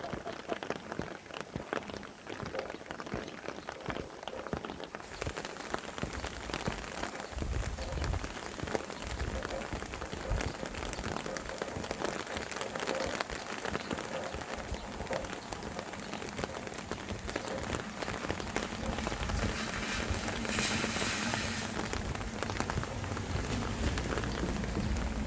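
Steady rain falling, with many individual drops pattering. Wind gusts add a low rumble from about a third of the way in.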